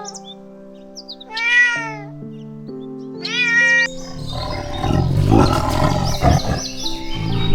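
Domestic cat meowing twice over background music, each meow under a second long and arching up then down in pitch. The second meow cuts off sharply, and about four seconds in a louder, rough, noisy sound takes over.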